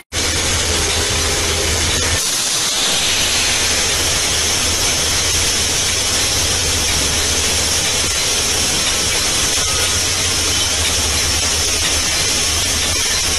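Steady loud rushing noise of a moving train, with a low hum beneath and a strong hiss on top, wind and running noise heard from on board.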